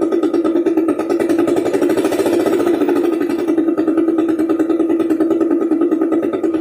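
A two-wheeler's engine running steadily through a loud exhaust, with a rapid, even throb and a strong low hum.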